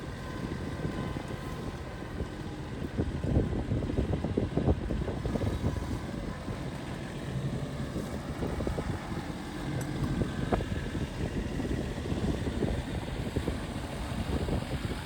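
A vehicle engine running with a low, steady rumble, overlaid with irregular rattles and knocks.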